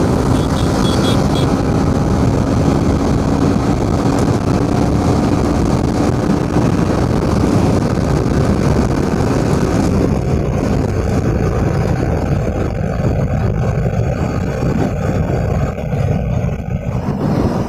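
Motorcycle engine running steadily with the rush of road and wind noise while riding. The hiss in the upper range thins out about ten seconds in.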